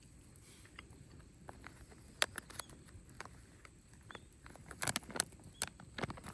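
Driftwood campfire crackling, with sharp irregular pops that come thicker and louder from about two seconds in.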